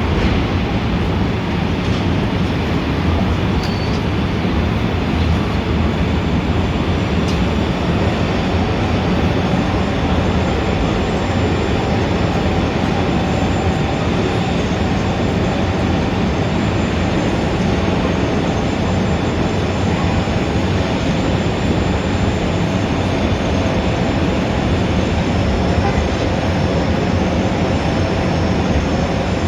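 Steady, unbroken din of dense city traffic, an even noise with no single event standing out.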